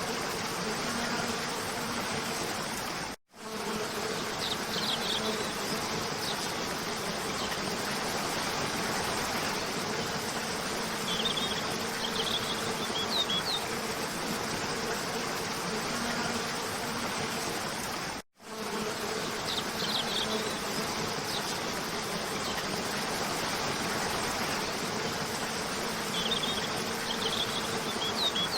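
Steady rushing of a cascading waterfall, with small clusters of high bird chirps every several seconds. The sound cuts out for an instant twice.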